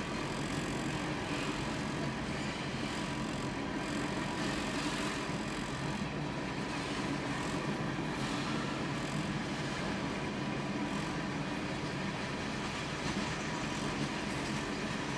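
Freight train of gondolas and tank cars rolling steadily past, the even noise of steel wheels running on the rails.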